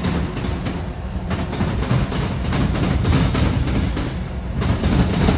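Freight train rolling past close by: a steady rumble with wheels clattering rhythmically over the rail joints.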